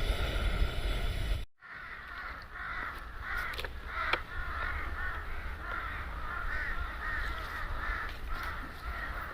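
Crows cawing over and over, about two caws a second, starting right after an abrupt cut from low wind-like rumble about a second and a half in.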